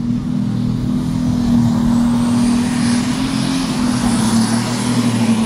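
Limited Super Stock pulling tractor's engine held at full throttle while pulling the brake sled, a loud steady drone with a faint high whine above it.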